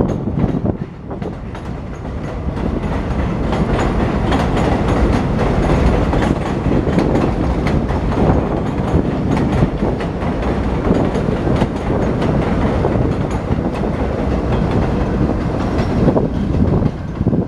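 A New York City subway train, a D train on the West End line, running through the station with its wheels clicking rapidly over the rail joints.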